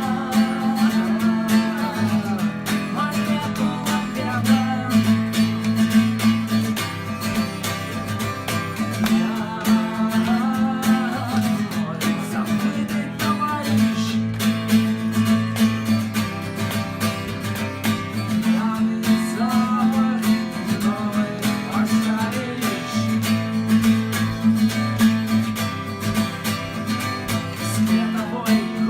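Acoustic guitar strummed in a steady rhythm through an instrumental passage of a song, with a wavering higher melody line over the chords.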